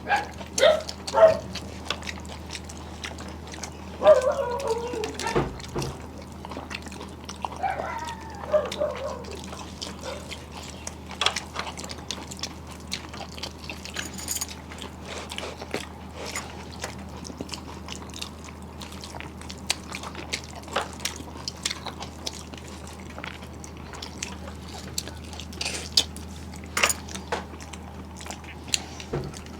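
Close-up eating sounds: chewing, lip smacks and small wet clicks of fingers and food, with the sucking and chewing of vegetable stalks from a curry. Twice, about four and about eight seconds in, there is a short voiced sound that falls in pitch.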